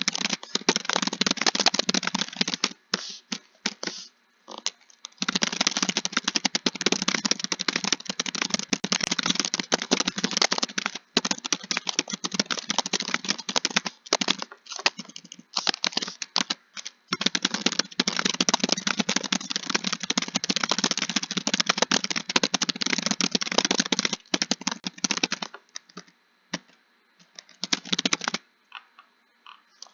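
Typing on a computer keyboard: fast, continuous runs of keystrokes broken by short pauses, thinning to a few scattered keystrokes near the end.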